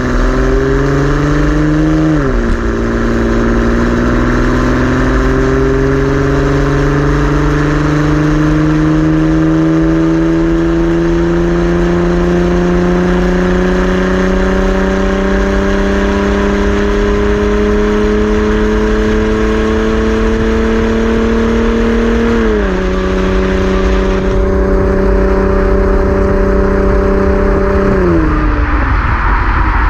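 Sixth-gen Camaro's 3.6-litre V6 through a Borla ATAK axle-back exhaust, accelerating under load. After a gear change about two seconds in, the engine note climbs slowly and steadily for about twenty seconds. It drops with an upshift, holds for a few seconds, and falls again near the end.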